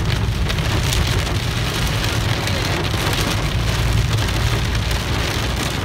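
Heavy rain pelting the roof and windshield of a moving car, heard from inside the cabin as a dense hiss of drops over a steady low rumble from the car.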